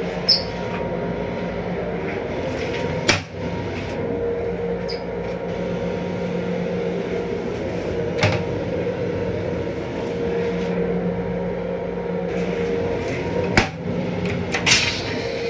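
Steady mechanical hum of an M7 electric railcar, heard in its small restroom, with about five sharp clicks and knocks spread through.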